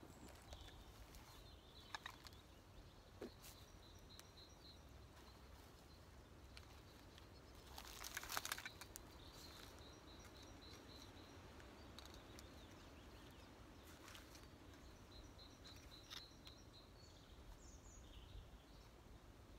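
Quiet woodland ambience in which a small bird repeats a fast, high trill several times. About eight seconds in comes a short rustle of cloth being handled, and there are a few faint clicks.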